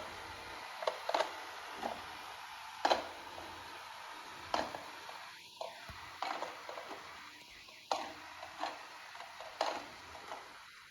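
Amarey A90+ robot vacuum cleaning: a faint steady hiss broken by irregular light clicks and taps, the hiss fading away after about halfway through.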